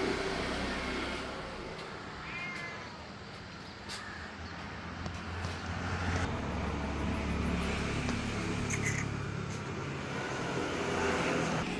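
A cat meowing: a short call about two and a half seconds in and fainter calls near the end, over a steady low rumble.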